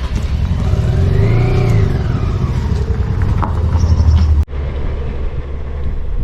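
Motorcycle engine and road rumble, loud and low. A pitched engine note rises and then falls over about two seconds near the start. About four and a half seconds in there is an abrupt cut, after which a steadier rumble goes on.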